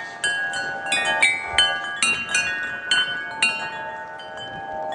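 Wind chimes struck over and over by a gust of wind, many overlapping ringing notes. The strikes come thick and fast at first and thin out after about three and a half seconds, leaving the notes to ring on.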